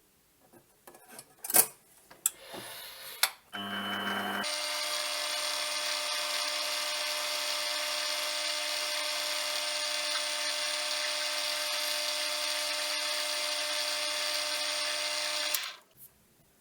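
A few knocks and clatters of metal handling, then a lathe's electric motor starts, comes up to speed in a step and runs with a steady whine for about eleven seconds before it is switched off near the end.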